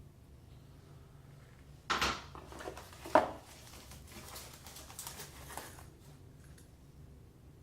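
Faucet parts and their packaging being handled: a clatter about two seconds in, a sharp knock about a second later, then a few seconds of small clicks and rattles that stop about six seconds in.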